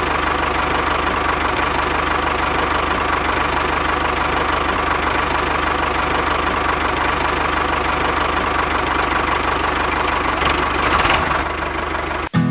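Small engine of a homemade mini tractor running steadily under way, swelling slightly about ten seconds in, then cutting off suddenly just before the end.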